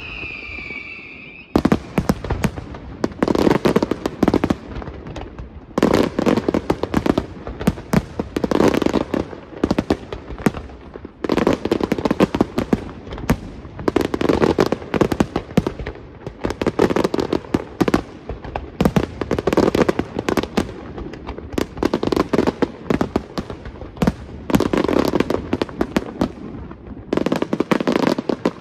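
Fireworks display firing in rapid succession: a dense run of cracks and bangs from shells and comets, with heavier volleys every two to three seconds. A whistle fades out in the first second or two.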